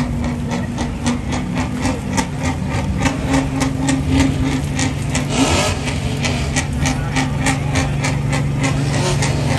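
Vehicle engine idling with a steady low hum, with a regular clicking about four times a second over it.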